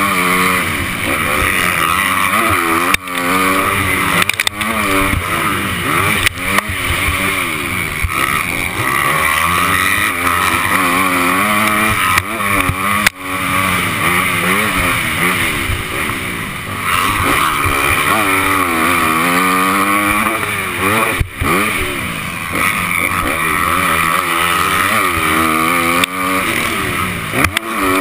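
Honda 250 motocross bike's engine running hard and revving up and down through the gears, with the throttle cut sharply and briefly about three times. A steady rush of wind noise sits over it.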